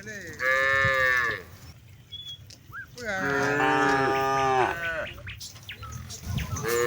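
Cattle mooing: three long moos, the last beginning near the end.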